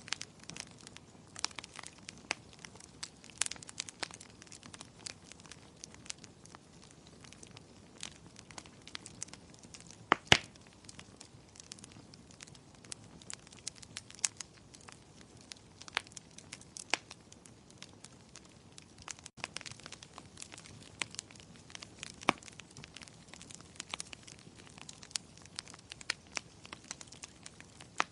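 Wood fire crackling, with irregular sharp pops and snaps and one much louder pop about ten seconds in, over a faint steady hiss.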